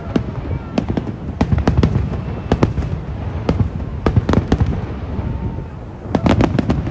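Aerial fireworks exploding in quick succession, many sharp bangs with an echoing tail after each, thinning briefly before a rapid cluster of bangs near the end.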